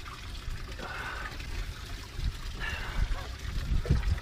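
Water trickling and splashing, over a steady low rumble of wind buffeting the microphone.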